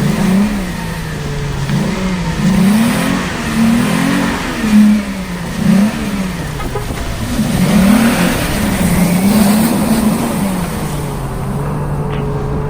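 Toyota Land Cruiser GRJ79's V6 petrol engine revving up and down again and again as it is driven off-road, then holding a steady pitch for the last couple of seconds.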